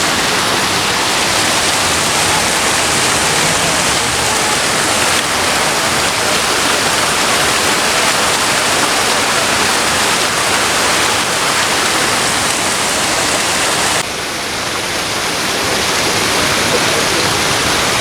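Steady rush of falling water. It drops a little and changes character suddenly about fourteen seconds in.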